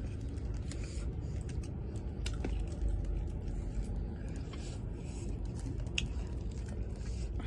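Scattered light clicks and scrapes of people eating, with utensils against dishes, over a low steady hum.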